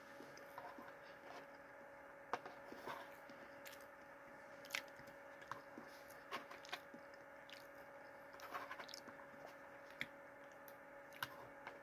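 A person chewing a mouthful of soft strawberry jello cake: faint, scattered wet mouth clicks and smacks.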